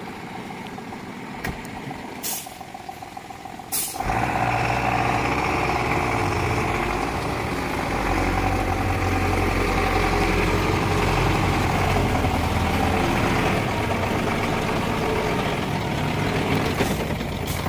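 A heavy lorry's diesel engine. It is quiet at first, with a couple of sharp clicks, then starts running loudly and steadily about four seconds in.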